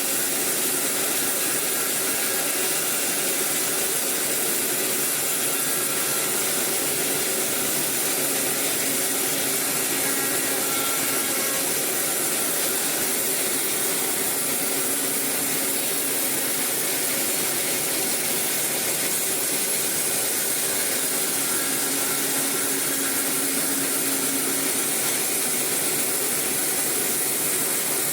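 Sawmill saw cutting eucalyptus timber: a steady, even hissing noise, strongest in the high pitches.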